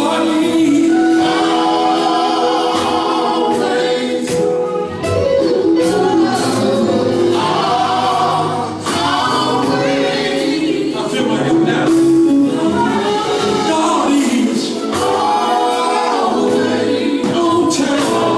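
Live gospel music: a group of voices singing together with instrumental backing.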